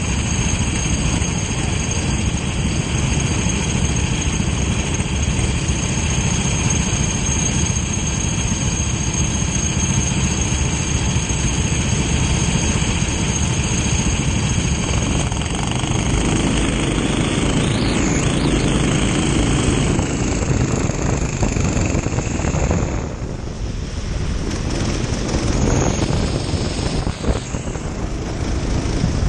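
Kart engine running as the kart is driven, a steady, loud mechanical drone with a short dip about three quarters of the way through.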